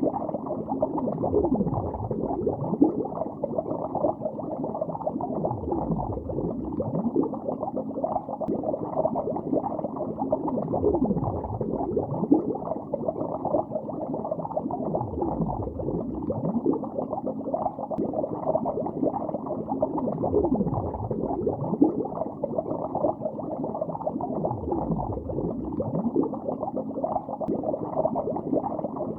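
Underwater bubbling in a lake: a steady, muffled stream of bubbles gurgling, with many deep tones that slide downward in pitch.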